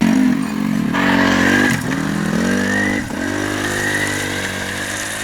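Tractor engine running under throttle, its pitch dipping sharply and climbing back twice, with a high whine riding above it.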